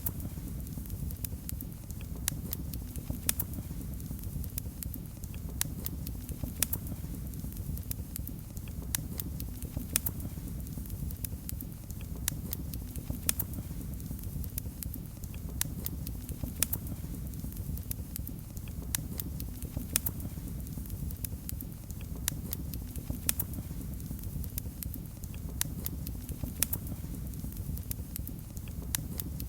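Fire crackling in a fireplace: a steady low rumble of burning with frequent sharp, irregular pops and snaps.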